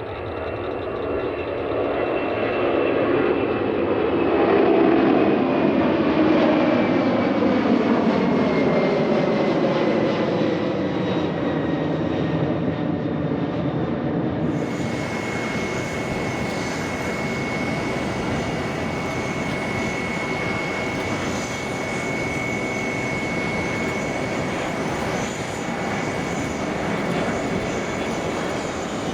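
Jet airliner engines passing close, loudest about five seconds in, with the turbine whine sliding down in pitch as the aircraft goes by. About halfway through the sound changes abruptly to a steady jet engine noise with a high, even whine.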